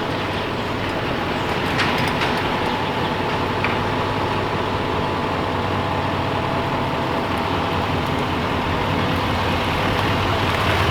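Truck running on the road: a steady engine and road noise that grows slightly louder.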